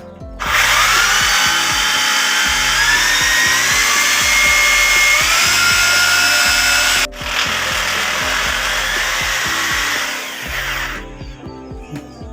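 Electric drill running in two long runs, its motor whine rising in pitch in steps during the first run. It stops briefly about seven seconds in, then runs again for about three seconds more.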